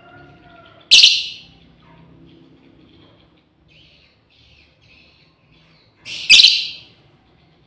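Lovebird giving two loud, shrill calls about five seconds apart, with faint chattering between them: a female lovebird calling to its companion.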